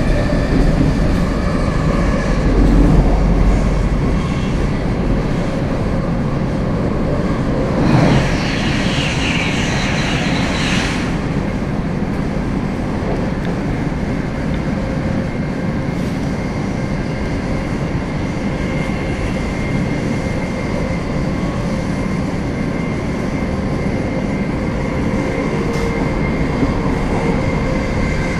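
Cabin noise of an electric passenger train running at speed: a steady rumble of wheels on rails with a faint steady whine. About eight seconds in, a sudden rush of hissing noise sets in and lasts about three seconds.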